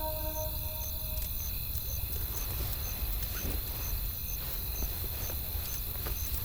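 Wood fire crackling with scattered sharp pops over a steady low rumble of wind, as a held music chord fades out in the first second.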